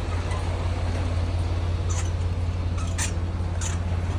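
Semi truck's diesel engine idling with a steady low rumble, with a few light clicks about halfway through and near the end.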